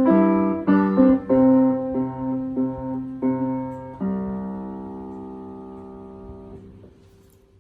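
Piano playing: a few short notes and chords, then a final chord struck about four seconds in and held, fading until it is released shortly before the end, closing the piece.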